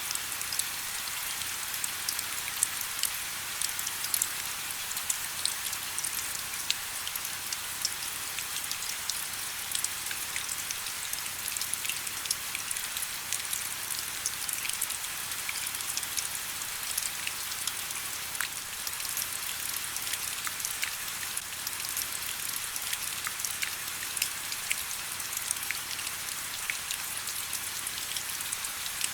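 Steady rain: a dense, even high-pitched hiss scattered with many small, sharp drop ticks.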